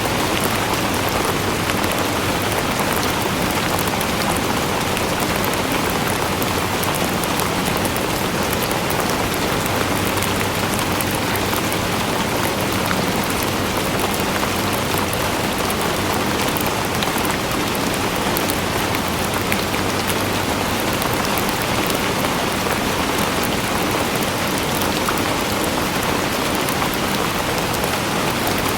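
Steady rain falling on a surface: a dense, even hiss with many fine drop ticks throughout.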